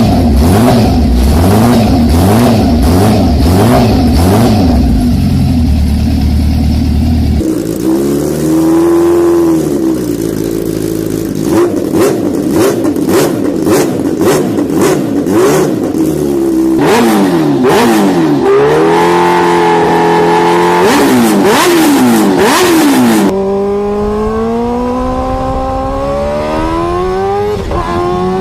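High-performance motorcycle engines revving and accelerating across several cut-together clips. The pitch repeatedly climbs and drops with throttle and gear changes, and over the last few seconds it rises steadily through the gears.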